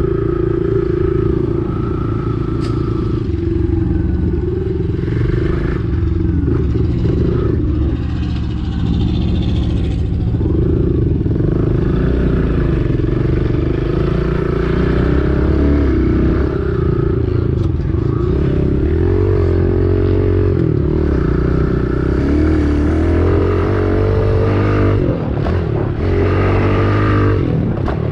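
Kawasaki KLX110 pit bike's small single-cylinder four-stroke engine running hard, its pitch rising and falling again and again as the throttle is opened and closed.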